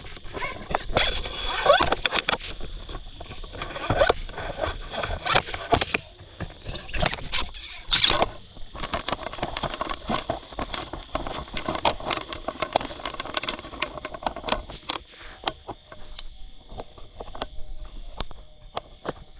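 Irregular high-pitched squeaks mixed with many scratching clicks and scrapes, densest in the first half.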